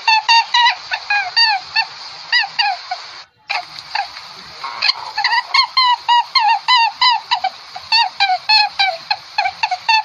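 A flock of birds calling: short, pitched calls that bend up and down, several a second, with a brief break about three and a half seconds in.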